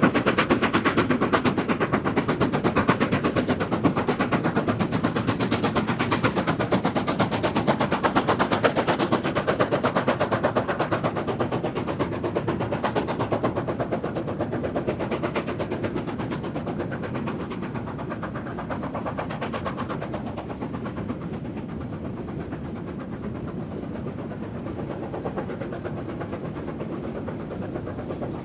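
China Railways QJ class steam locomotive working hard, its exhaust beats coming in a rapid, even stream and slowly fading as it draws away.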